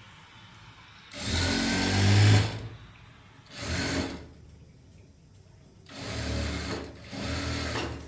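Sewing machine running in four short bursts, stopping in between. The first run, about a second in, is the longest, and two shorter runs come close together near the end.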